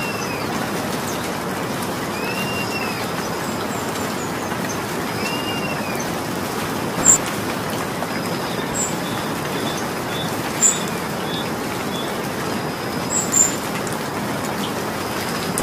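Steady rain falling. Over it a bird gives a short arching call about every three seconds in the first half, and a few sharp high ticks or chirps stand out later on.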